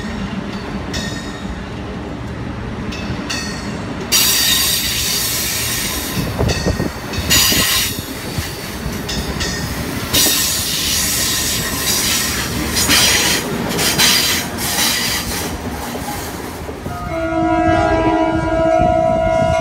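Amtrak Acela Express trainset passing close by: a steady rush of wheels on rail, with a loud high hiss of wheel and rail noise starting about four seconds in. Near the end a diesel locomotive's multi-tone horn sounds and holds steady, from an approaching MBTA commuter train.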